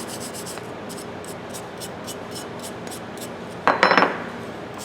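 Faint scrubbing strokes of a brush on metal over a steady background hiss, then a brief metallic clatter with a short ring about three and a half seconds in, as a steel tool is knocked or set down.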